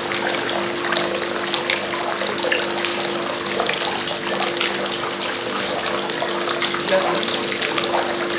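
Warm thermal spring water running and splashing steadily, with sustained background music notes under it.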